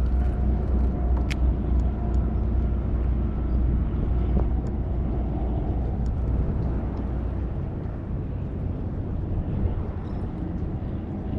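Steady low rumble of wind buffeting the microphone, easing somewhat after about seven seconds, with a few faint clicks.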